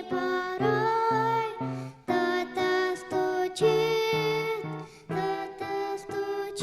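A solo female voice singing a Russian Christian song over instrumental accompaniment.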